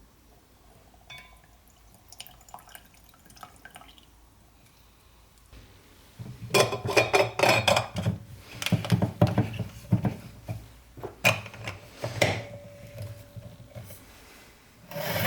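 Faint clinks at first, then about six seconds of busy clattering and clinking of dishes and kitchen utensils, which dies down again near the end.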